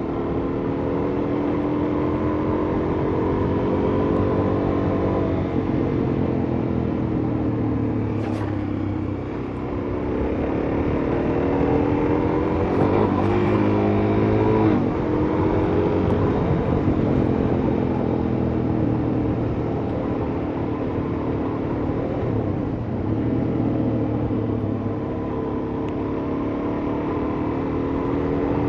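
Suzuki DR-Z400S's single-cylinder four-stroke engine running under way, its pitch rising and falling with the throttle, with a quick rev up and back down about halfway through.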